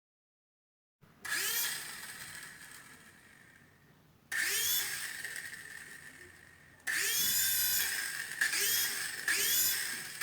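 Small electric motor of a toy RC helicopter whirring as its rotor is powered in short pulses from a push button: it spins up with a rising whine several times, coasting down in between, with quicker presses near the end.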